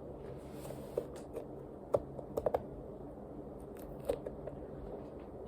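A few faint, sharp clicks and taps over a low steady room hum: one about a second in, a quick cluster around two seconds, and another near four seconds.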